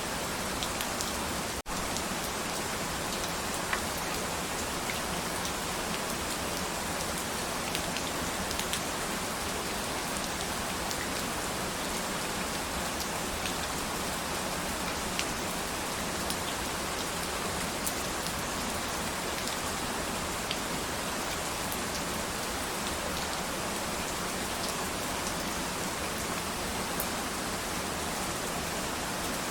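Steady rain falling, with scattered sharp taps of single drops. The sound drops out for an instant a little under two seconds in.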